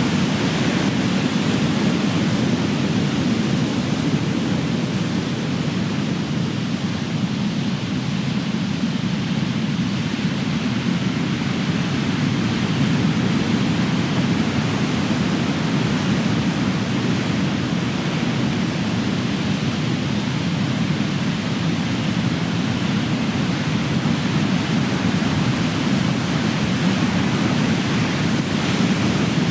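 Big ocean waves breaking and washing on the shore: continuous surf noise that swells a little at the start and again near the end.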